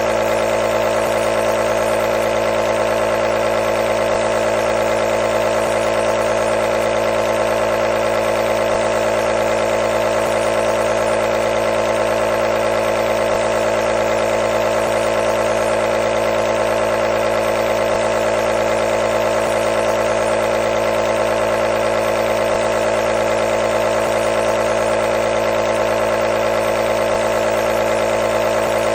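Nebulizer running continuously: a steady mechanical hum with an even hiss, unchanging throughout.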